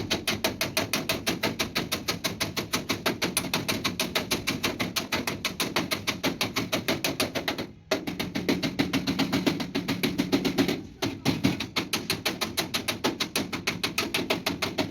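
Rapid, steady hammering on sheet metal at about five blows a second, typical of panel beating on a truck cabin. The hammering pauses briefly twice.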